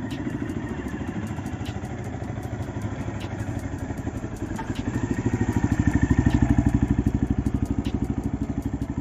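Benelli Imperiale 400's 374 cc single-cylinder engine idling with an even, quick pulsing beat, about ten beats a second. It grows louder for a few seconds past the middle, then eases back.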